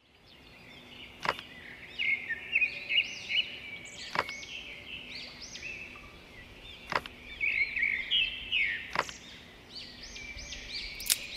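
Songbirds chirping continuously in quick, high, arching calls, with five sharp clicks spread out two to three seconds apart.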